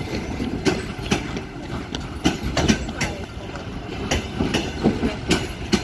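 Wheels of a departing passenger train rolling past at low speed, clacking irregularly over rail joints and points, several knocks a second over a steady rumble.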